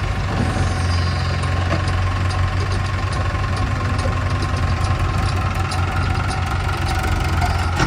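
Heavy diesel engine of a backhoe loader or tractor running steadily at low revs.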